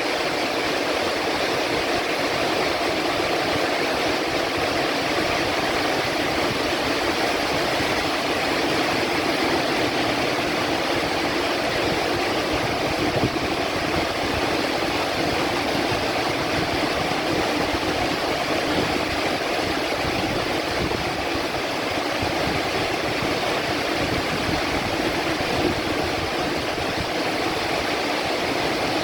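Heavy rain falling in a steady downpour, an even hiss with no thunder standing out.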